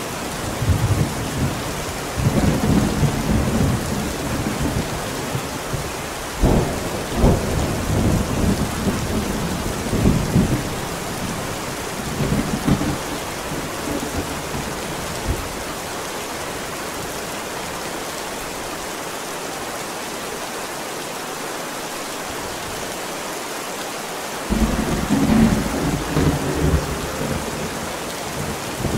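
Steady heavy rain with thunder rumbling through it: a long stretch of rolling thunder with sharper cracks about 6 and 7 seconds in, a lull of rain alone, then another thunder roll starting near the end.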